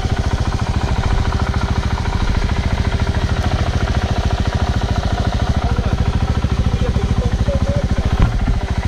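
Off-road motorcycle engine idling close by with a steady, even beat. A single knock sounds near the end.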